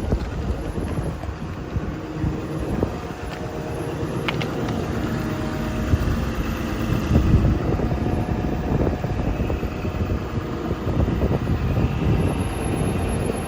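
Komatsu PC240LC-10 hydraulic excavator's diesel engine running steadily, with wind buffeting the microphone.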